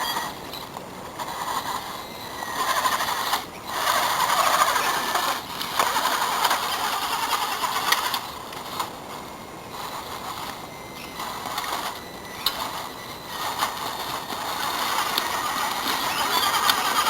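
Home-built RC trial truck's small electric drive motor and gearbox whirring as it drives. It runs in spurts, dropping out briefly several times and picking up again.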